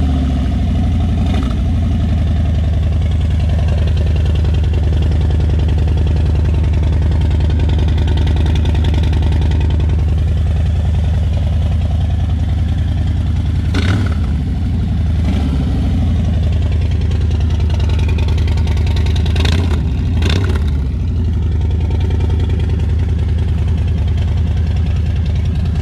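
Harley-Davidson Milwaukee-Eight 114 V-twin idling through a Sawicki Speed 2-into-1 exhaust, just after being started. There is a short sharp sound about midway and two more a little later.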